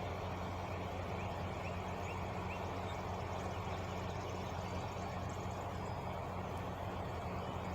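Truck engine idling steadily, an even low hum. A few short bird chirps around two seconds in.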